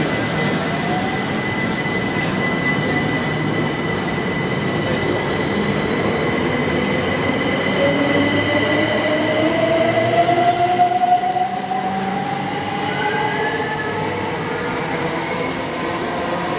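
Train in the station, running steadily, with a steady high tone and a second tone that rises slowly in pitch through the middle and latter part.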